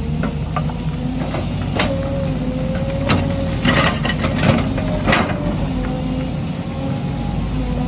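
Excavator diesel engine running steadily, with a cluster of sharp knocks and rattles in the middle, typical of the bucket working rock and soil.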